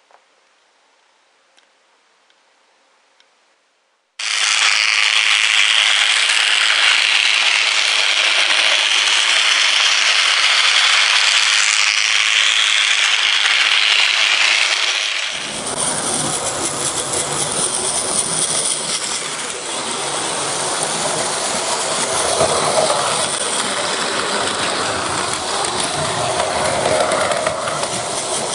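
A battery-driven Plarail toy train runs on plastic track, its small motor and gears making a steady rattle that starts abruptly about four seconds in. Partway through, the sound cuts to a different steady running noise with a deeper rumble.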